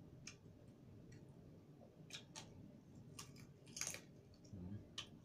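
A few faint clicks, then crispy pork being bitten and chewed, with crunches of the crackling skin, the loudest about four seconds in.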